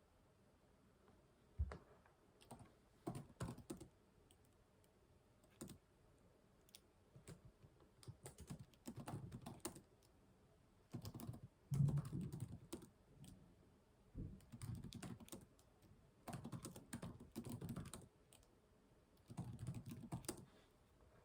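Typing on a computer keyboard in short runs of rapid key clicks with pauses between, plus a few single clicks; one louder knock about twelve seconds in.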